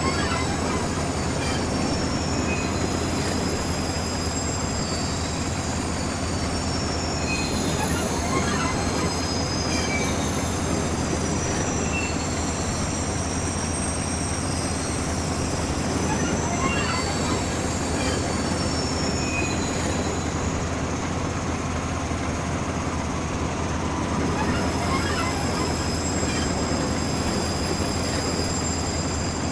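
Train running on the rails with a steady rumble, with high squealing tones from the wheels coming and going.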